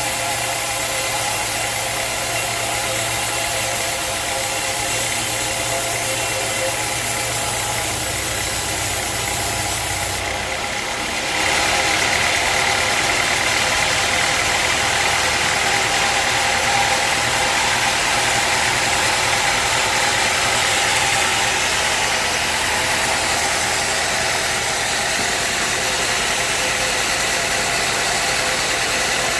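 Sawmill engine running steadily. About eleven seconds in, the sound shifts to a louder, higher hiss.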